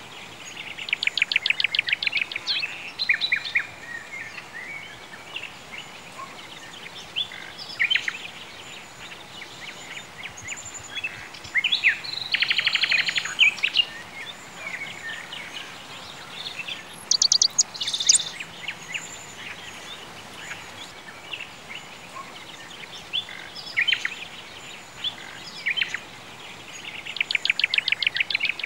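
Birds chirping over a steady background hiss, with a fast trill heard four times: near the start, about twelve seconds in, around seventeen seconds and near the end.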